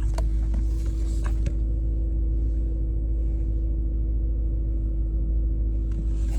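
BMW E39 M5's S62 4.9-litre V8 idling steadily while warming up from a cold start, with a steady hum over the idle. A few light clicks sound in the first second and a half, and another near the end.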